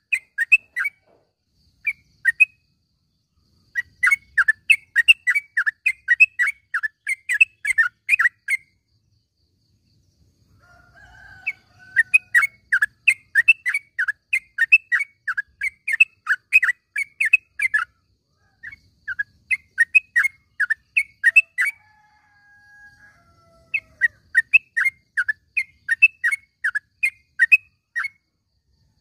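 Sooty-headed bulbul calling: bouts of sharp, rapidly repeated chirps, about three or four a second, separated by pauses of a second or more. A couple of fainter, lower whistles fall in pitch near the middle.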